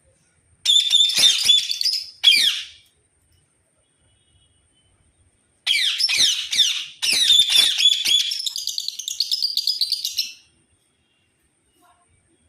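A bird calling in rapid, high chirps and twittering notes, in two bouts: one starting just under a second in and lasting about two seconds, and a longer one of about five seconds starting near the middle.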